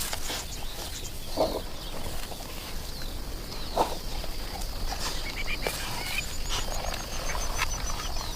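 Outdoor wildlife ambience: a few short, low animal calls about a second and a half and nearly four seconds in, among scattered bird chirps. Near the end comes a high run of chirps falling slowly in pitch.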